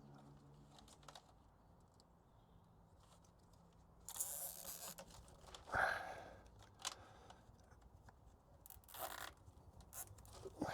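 Faint handling noises as a fuel line is fixed under a van with cable ties: scattered rustles and scrapes, the louder ones about four and six seconds in and again near nine seconds.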